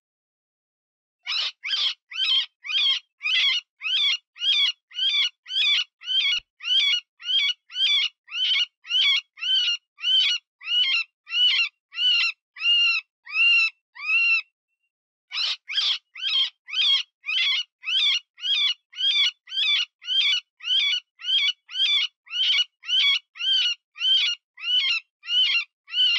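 Cottontail rabbit distress call used as a predator lure: short, high, pitched cries repeated a bit over twice a second. The run starts about a second in, breaks briefly about halfway through, then resumes.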